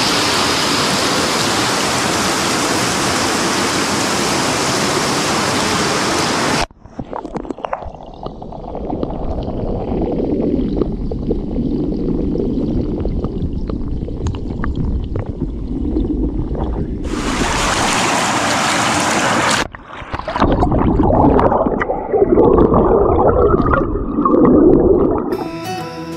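Rushing water of a forest stream or waterfall, which cuts off abruptly about seven seconds in. After the cut there is an uneven low rumble with scattered knocks, a second short burst of rushing water, and guitar music starting near the end.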